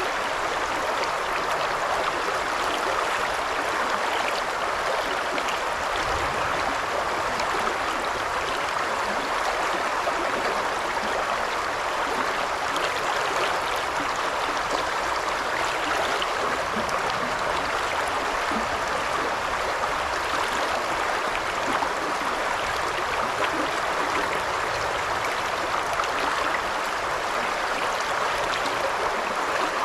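The shallow Isuzu River babbling steadily, an even rush of running water with no pauses or changes.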